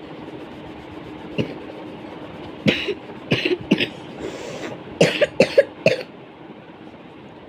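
A person coughing in two fits, three or four short coughs each, over a steady background hiss.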